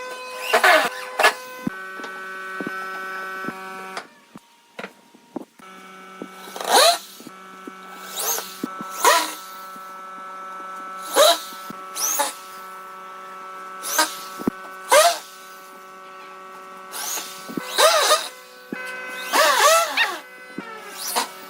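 An electric power tool motor runs with a steady hum, which drops away briefly about four seconds in. Over it come repeated short, louder bursts whose pitch bends up and down, about every one to two seconds.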